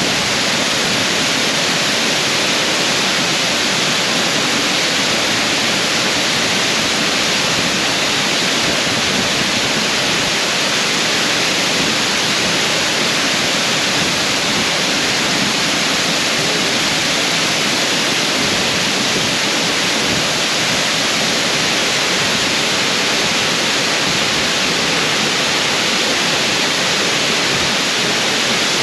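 Waterfall: a steady, loud rush of falling water, even and unchanging throughout.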